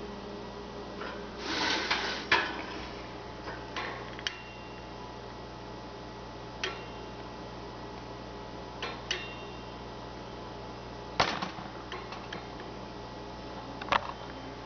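Scattered clicks and light rattles in a pet birds' cage, a dozen or so irregular ones, the longest a short rustling rattle about two seconds in, over a steady hum.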